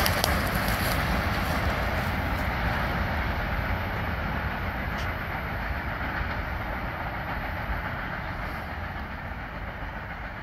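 Freight train of covered hopper and tank cars rolling away on the rails: a steady rumble with a few sharp wheel clicks, fading gradually as the last cars pull off into the distance.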